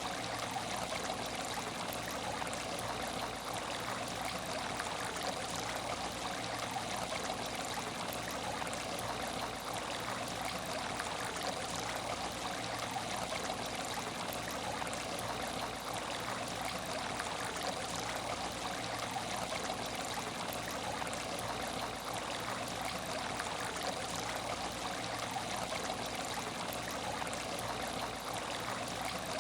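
Water in an aquarium tank trickling and splashing steadily, with a faint steady hum underneath.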